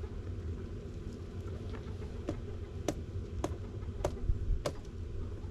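Five sharp taps or knocks, evenly spaced a little over half a second apart, over a steady low rumble.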